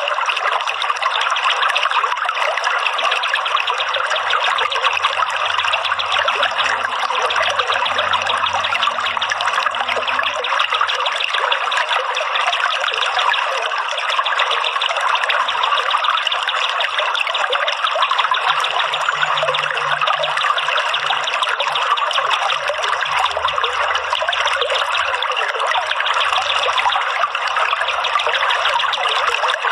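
Steady trickling running water, such as a stream or flowing water used as a bird-therapy sound.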